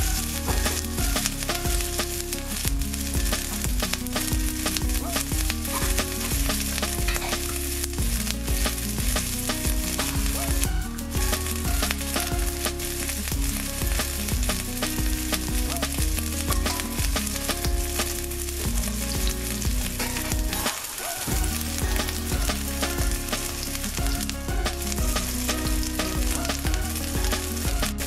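Grated ginger frying in hot oil in a pan: a steady sizzle.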